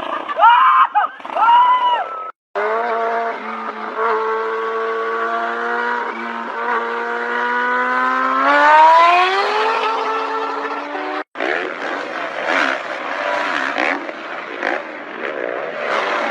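Motorcycle engine running at steady high revs, its pitch climbing as it revs up about two-thirds of the way through. The sound is broken by two abrupt cuts: brief rising-and-falling cries come before the first, and a noisy rushing stretch follows the second.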